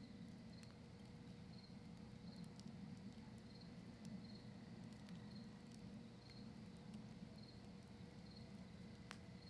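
Quiet wood campfire of cedar and maple crackling with scattered small pops, one sharper pop near the end. A cricket chirps about once a second.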